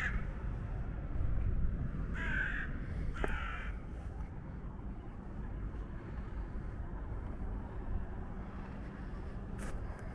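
A bird gives three harsh, caw-like calls in the first four seconds, the first already under way at the start, each about half a second long, over a steady low rumble.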